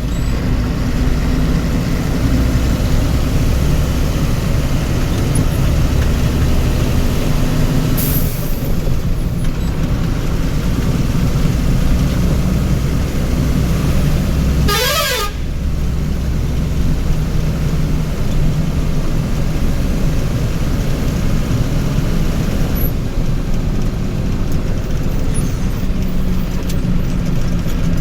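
Heavy vehicle engine running steadily in road traffic. About halfway through, a horn sounds briefly in a short warbling run of notes.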